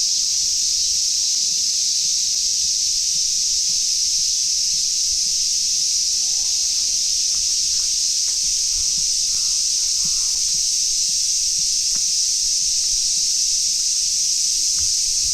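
A dense chorus of cicadas buzzing in summer, a steady high-pitched drone that never lets up.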